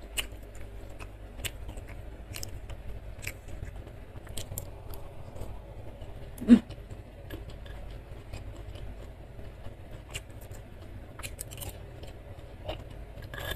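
Close-miked chewing of fried tofu and whole raw bird's-eye chilies: scattered small wet mouth clicks and crunches, with one louder click about six and a half seconds in. A steady low hum runs underneath.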